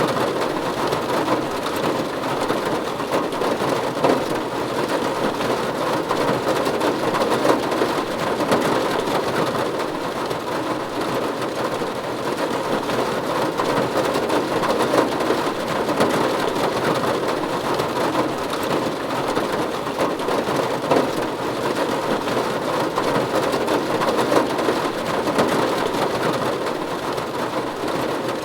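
Steady rain falling on a roof, an even dense patter of drops with no letup.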